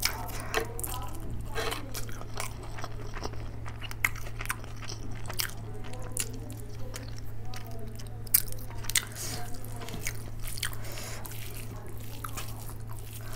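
Close-miked eating sounds of a person chewing hand-fed mouthfuls of rice and curry: irregular wet mouth clicks, smacks and chewing.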